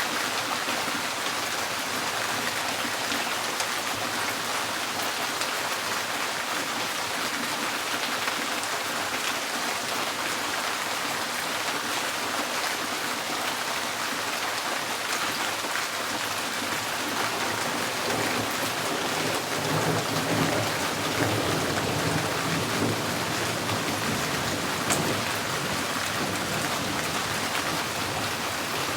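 Steady rain drumming on a tin porch roof. A low rumble swells for a few seconds about two-thirds of the way through, then fades.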